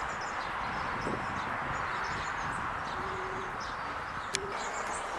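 Steady outdoor background noise with faint, scattered bird chirps and a single sharp click about four seconds in.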